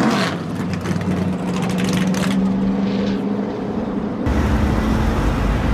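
Drift car's engine held at steady high revs through a smoky slide, over a hiss of tyre noise. A little after four seconds it cuts off abruptly to the low rumble of street traffic.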